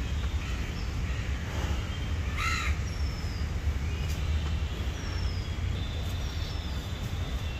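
A bird gives one short harsh call about two and a half seconds in, and short high falling chirps come several times after it, over a steady low rumble.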